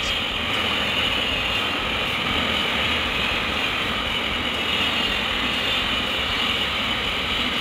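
Double-stacked container freight train passing, with the steady rolling noise of its wagon wheels on the rails.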